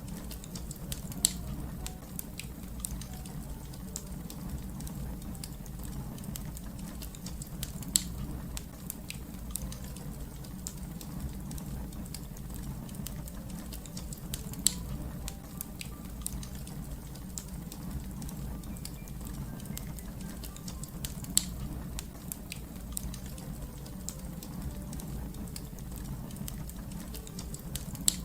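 Wood fire crackling: a steady low rumble of flames under a constant fine crackle, with five louder sharp pops spread evenly through.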